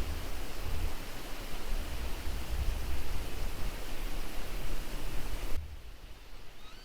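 Steady rushing noise with uneven low rumbling gusts, wind buffeting the microphone, cutting off abruptly about five and a half seconds in to a much quieter background.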